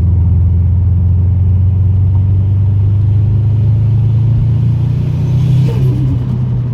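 Subaru WRX STI's turbocharged flat-four engine running at a steady, deep drone. Near the end a short extra sound drops in pitch over the drone.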